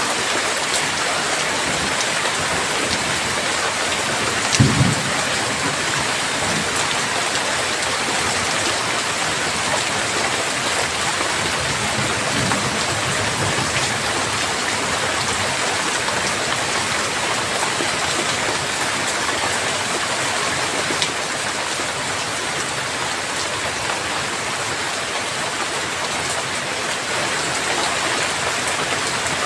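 Heavy rain falling in a steady hiss. A short low thunder rumble comes about four and a half seconds in, and a fainter one follows around twelve seconds.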